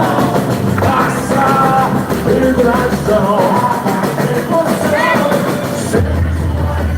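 Live boi-bumbá toada music: a lead voice singing over an amplified band, loud and steady.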